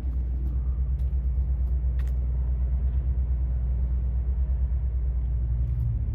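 An engine running steadily: a low, finely pulsing rumble, with a couple of faint clicks about one and two seconds in.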